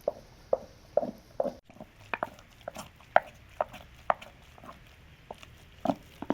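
A run of short, sharp knocks or taps, about two a second, going on steadily.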